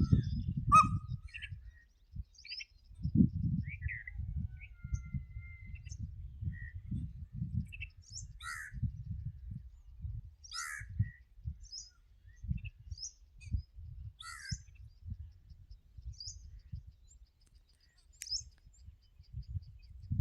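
Birds calling at a watering spot: many short chirps and calls, a few of them harsher and stronger, scattered through the stretch over a low, uneven rumble.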